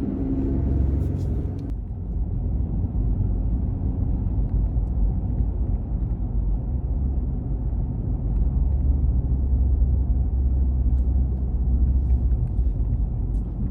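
A car driving: a steady low rumble of engine and road noise, with a lighter hiss above it that drops away about two seconds in.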